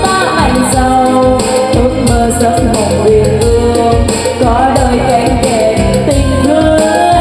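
Music: a Vietnamese spring (Tết) song with a voice singing over a steady beat, played through the NT 1508 portable trolley karaoke speaker.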